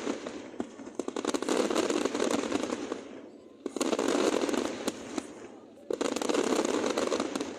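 Fireworks display: dense volleys of rapid crackling reports in waves that swell and fade, with a new wave breaking out suddenly about three and a half seconds in and again about six seconds in.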